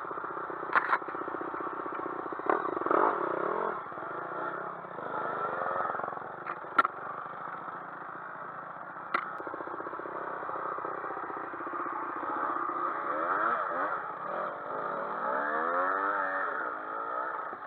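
Dirt-bike engine running and revving up and down, with the pitch swinging several times in the second half. Four or five sharp knocks stand out over the engine in the first half.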